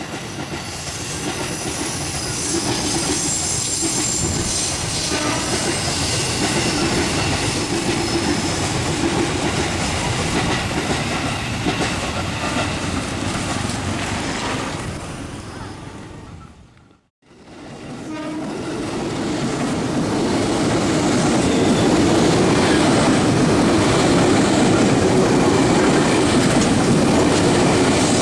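KRL Commuter Line electric train passing close by in heavy rain, its wheels clattering over the rails. The sound drops out for a moment about two-thirds of the way through, then comes back louder.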